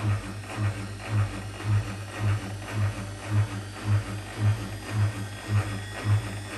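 Whirlpool WWDC 7440 washing machine's drain pump humming and chugging in a steady pulse about twice a second, a sound the owner judges does not sound good.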